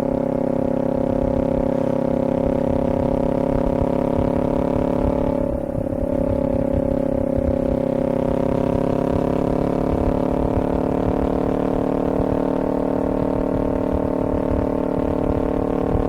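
A vehicle's engine running steadily while the vehicle is under way, with a brief dip in level and pitch about five and a half seconds in.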